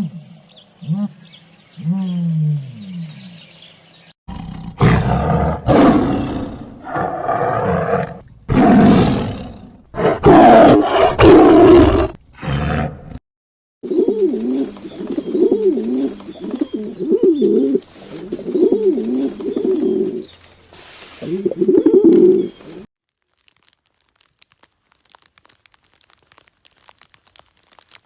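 A series of animal calls: a few short falling cries, then several loud, harsh roars, then a run of rapid pulsing calls, which stop about two-thirds of the way through.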